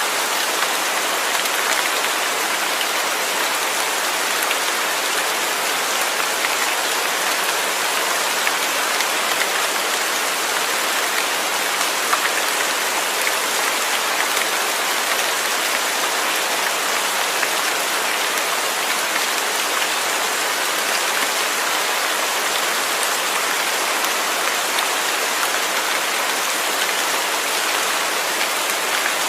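Steady rain falling, an even hiss of many drops with faint scattered ticks and no change in intensity.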